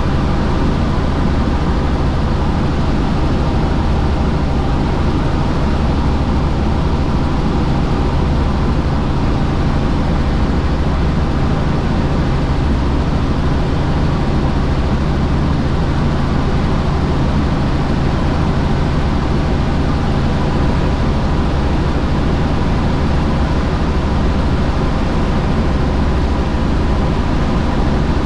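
Helicopter in flight: steady rotor and engine noise with a deep hum, unchanging throughout.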